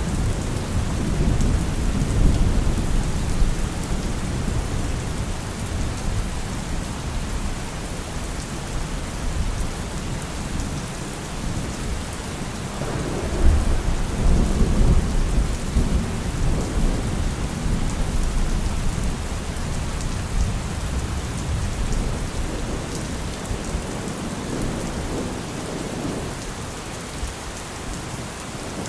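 Thunderstorm: steady heavy rain hissing, with low rolling thunder rumbling underneath, swelling near the start and again about halfway through.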